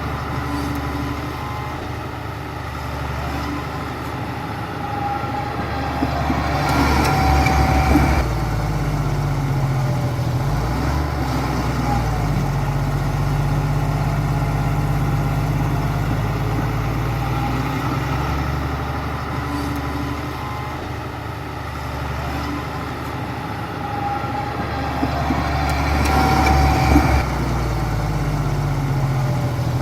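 Heavy diesel engine of an earthmoving machine running steadily, its pitch shifting as it works; it gets louder under load twice, about seven seconds in and again near the end.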